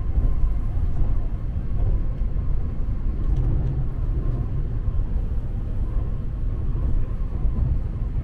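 Tokaido Shinkansen car running, heard inside the passenger cabin as a steady low rumble.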